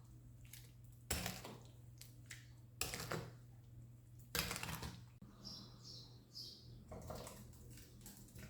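A few soft knocks and rustles over a steady low hum, with a bird chirping a few times a little past the middle.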